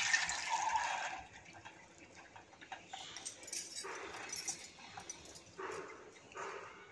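Soaked chana dal and its soaking water poured from a glass bowl into a steel strainer: a rush of water and sliding wet lentils in the first second, then fainter short spurts as more grains slide out, two of them near the end.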